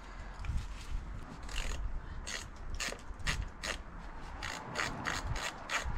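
Socket ratchet clicking in short, irregular bursts as its pawl ratchets on the back-swing, undoing 10mm fasteners on a car engine bay cover.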